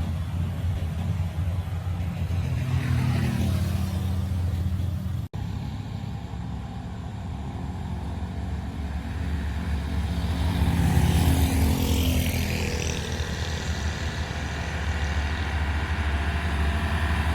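Traffic of heavy trucks and other vehicles climbing a steep uphill road: a steady low engine rumble throughout, with a vehicle passing close that grows louder and fades away around the middle. The sound cuts out for an instant about five seconds in.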